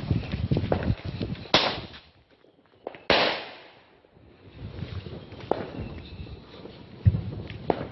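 Fireworks going off: crackling, then two loud bangs about a second and a half apart, the second one ringing out, followed by more scattered crackling and pops.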